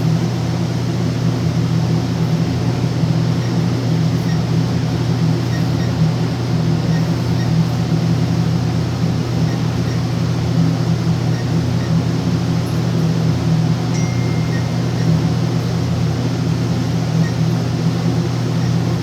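A steady low machine hum with a constant noise haze. Over it come faint short electronic beeps now and then, and one longer beep of about a second near the three-quarter mark, fitting key presses on an alarm keypad being programmed.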